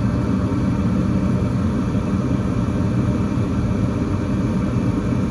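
Goodman gas furnace running with its burners lit and the draft inducer fan going: a steady low rumble. The burners are staying lit with a freshly cleaned flame rod, and the main blower has not yet come on.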